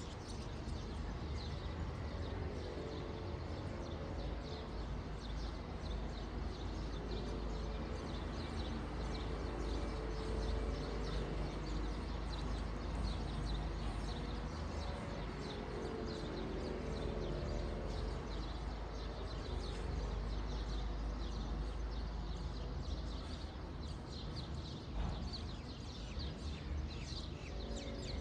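Many small birds chirping at once over a steady low rumble of outdoor background noise.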